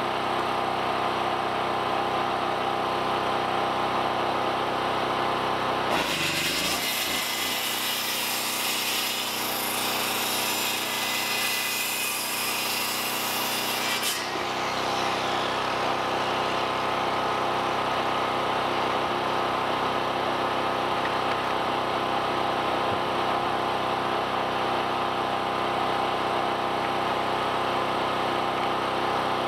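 A small engine running steadily, with a saw cutting through wood for about eight seconds starting some six seconds in.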